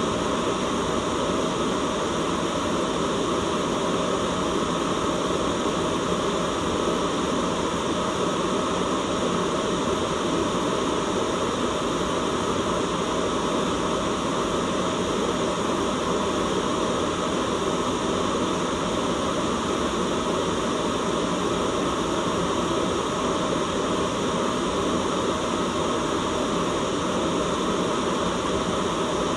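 Steady, unchanging white noise: a continuous hiss spread across the whole range from low to high, with no breaks or events.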